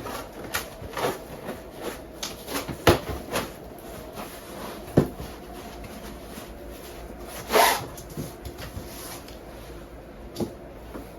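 Irregular knocks and clicks, the sharpest nearly three seconds in and about five seconds in, with a longer scraping sound near eight seconds, over a steady low hiss.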